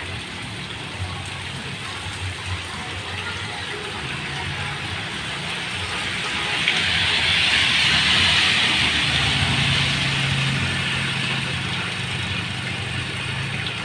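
Heavy rain falling steadily, swelling louder for a few seconds around the middle, with a low steady hum underneath.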